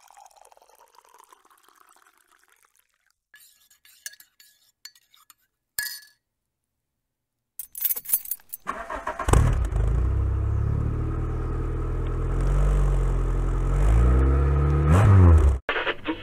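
Keys jangle and click at the ignition, then a car engine cranks, catches and runs, its revs rising shortly before it cuts off suddenly near the end.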